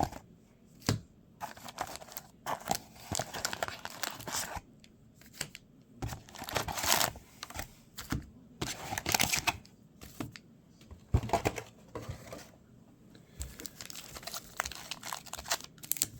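Trading-card packaging being torn open and crinkled by hand, in a series of irregular rustling, tearing bursts with short pauses between them.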